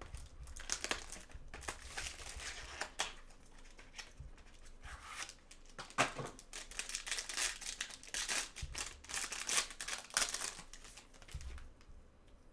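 Trading-card packaging crinkling and tearing in irregular bursts as cards are unwrapped and handled, stopping shortly before the end.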